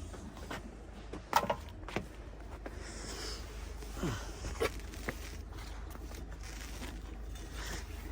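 Footsteps and scattered knocks and clicks of someone stepping ashore from a moored sailboat to make fast a mooring line, the sharpest knock about a second and a half in, over a low steady hum.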